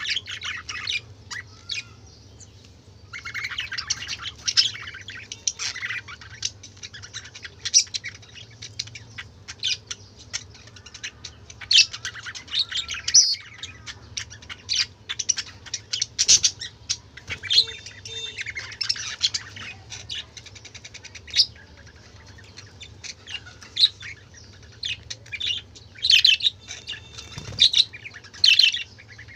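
Several pet budgerigars chattering, a dense run of quick high chirps in bursts with short lulls.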